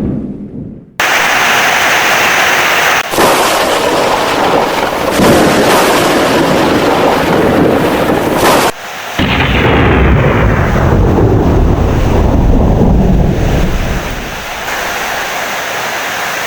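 Heavy rain with rolling thunder: a dense wash of rain under loud, deep thunder rumbles that cut in abruptly about a second in and again about nine seconds in, then ease off near the end to steady heavy rain.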